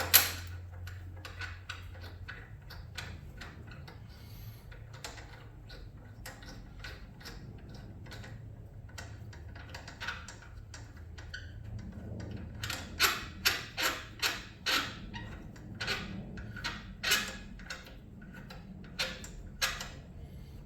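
Scattered metallic clicks and knocks of hand tools and motorcycle brake parts as a front brake caliper is worked back over its rotor, with a quick run of sharp clicks a little past the middle.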